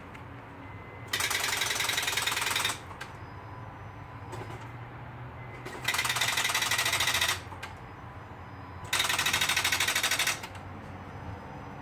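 2012 Honda Accord's starter solenoid chattering in fast, even clicking bursts, three times for about a second and a half each, as the key is turned and the engine does not crank. Rapid clicking like this is typical of too little battery current reaching the starter, though the owner is unsure whether the battery is to blame.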